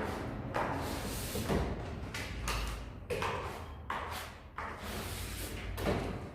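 Steel plastering trowel scraping and smoothing gypsum plaster, a series of separate strokes about one a second.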